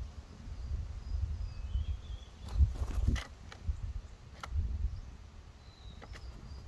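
Small songbirds at a feeder giving a few faint, short high chirps over a low rumble of wind on the microphone, with a cluster of sharp taps about two and a half to three seconds in and single taps later.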